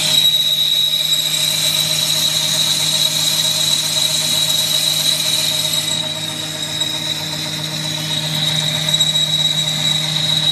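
Metal lathe boring the inside of a flange blank, the cutting tool giving a steady high squeal over the hum of the lathe's drive. The high hiss of the cut thins about halfway through.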